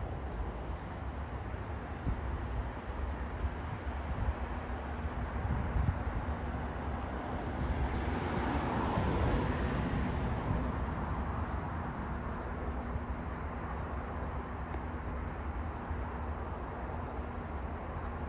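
Outdoor ambience: insects chirring steadily in a high, even tone, over a low rumbling noise that swells to a peak about halfway through and then fades away.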